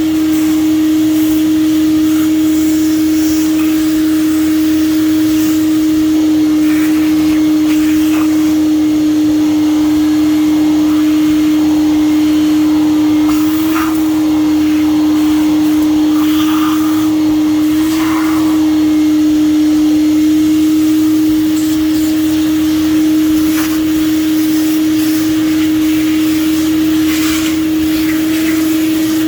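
Craftsman shop vac running steadily with a strong, even whine, sucking up metal chips off a milling machine, with short rattles and clicks as chips are drawn into the hose.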